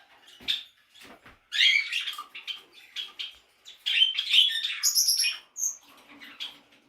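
Budgerigars chattering and warbling in quick chirpy bursts, several times, with a few thin high peeps near the middle.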